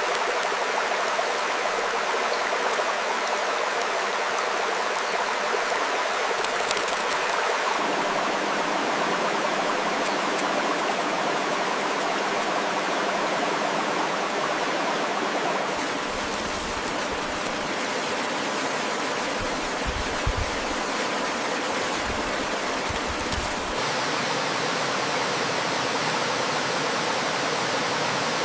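Steady rushing water of a stream, an even noise with no clear calls over it. Its character changes abruptly about 8, 16 and 24 seconds in.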